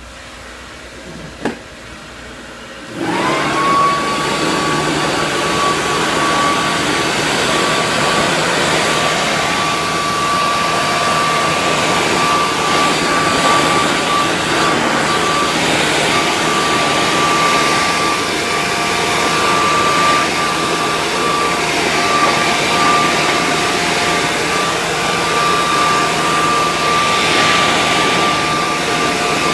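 A household appliance's electric blower motor, such as a vacuum cleaner's, is switched on about three seconds in. It spins up to a steady high whine over a loud rush of air and runs on steadily. A short knock comes about a second and a half in, before it starts.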